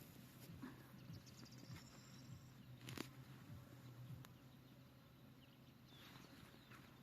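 Faint steady low hum of honeybees buzzing around the hives, with a few soft high bird chirps and a single sharp click about three seconds in.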